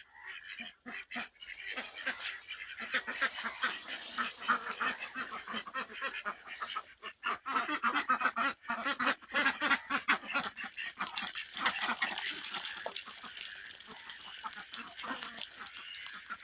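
A flock of farmed ducks quacking and calling, with many voices overlapping into a busy din. It builds up after a second or so and eases slightly near the end.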